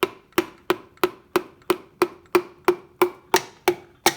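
Piston being tapped down through a ring compressor into an outboard engine cylinder: an even series of sharp taps, about three a second, each with a brief ring.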